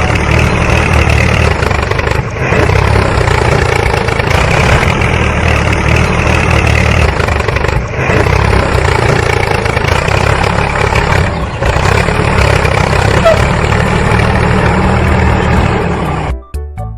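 Engine running steadily with a deep rumble. It dips briefly three times and cuts off abruptly near the end.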